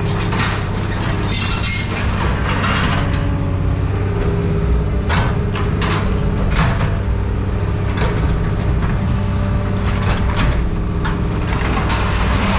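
A heavy machine's engine running steadily, with scrap metal clanking and crashing at irregular moments as it is handled.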